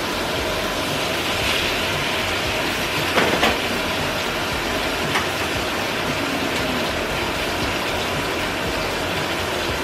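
Eggs frying in a pan on an electric stove, a steady sizzle, with a few sharp taps and clicks from utensils about three seconds in and once more about five seconds in.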